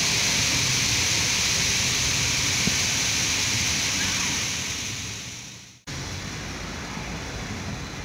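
Steady rush of a waterfall, fading out about five seconds in; after a brief dropout a quieter, duller steady noise follows.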